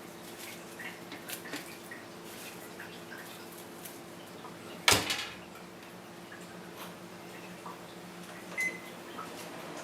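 A steady low hum with scattered light taps and clicks, and one sharp knock about five seconds in.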